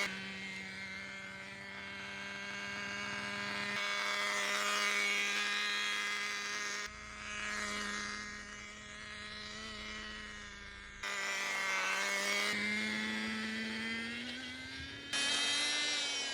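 Small glow-fuel engine of a Kyosho Pure Ten GP nitro RC car, an O.S. MAX CZ12, running at a steady pitch. The sound jumps abruptly several times, and the pitch rises in the last few seconds.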